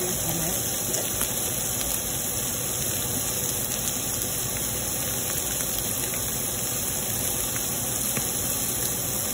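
Pulled pork, green peppers and onion sizzling in a hot pan: a steady frying hiss with a few tiny pops.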